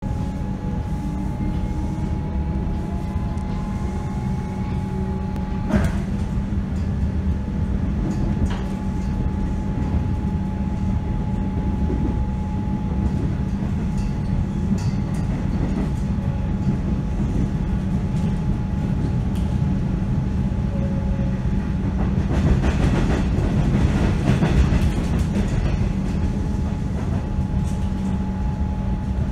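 Inside a Comeng electric suburban train running: a steady rumble of wheels on rails with a constant hum, and a faint rising whine in the first few seconds. A few sharp clicks come through, and a louder, noisier stretch comes about three-quarters of the way through.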